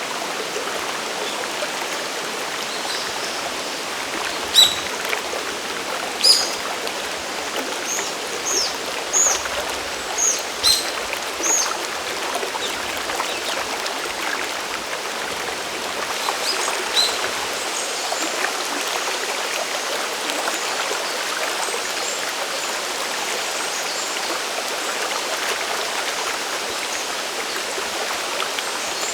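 Mountain stream and waterfall water rushing steadily. A bird calls over it with a string of short, sharp chirps, most of them between about four and twelve seconds in and a couple more near seventeen seconds.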